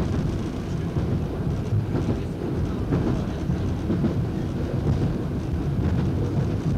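Train running along the line, heard from the driver's cab: a steady low rumble of the engine and wheels on the rails, with a few faint clicks scattered through it.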